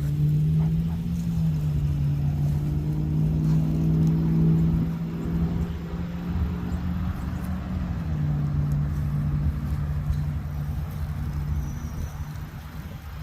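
An engine running steadily with a low hum, its pitch shifting slightly about a second in and again near eight seconds.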